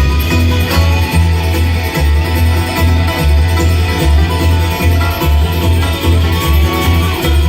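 Bluegrass band playing: picked guitar and banjo over a steady bass beat.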